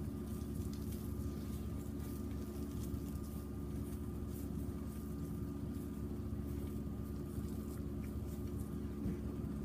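Wood burning in a small portable fire box, with faint scattered crackles over a steady low hum.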